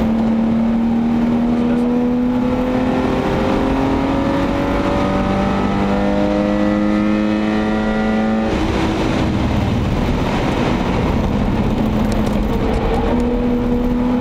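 BMW 525i E34's 24-valve VANOS inline-six heard from inside the cabin at full throttle, its pitch climbing steadily for about eight seconds under hard acceleration. The engine note then breaks off suddenly, leaving road and wind noise, and starts climbing again near the end.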